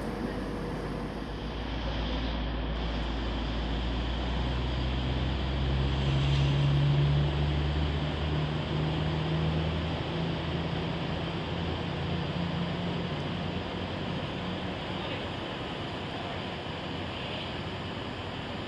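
Diesel train engine running, a low steady drone that swells about six seconds in and then slowly fades away.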